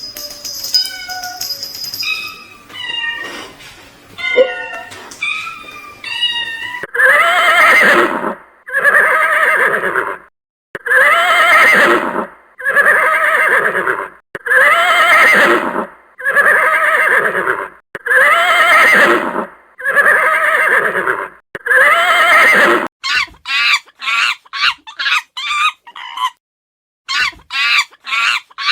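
A sequence of animal calls: faint chirps at first, then one loud call repeated about eight times at even intervals, then quick, short, falling calls near the end.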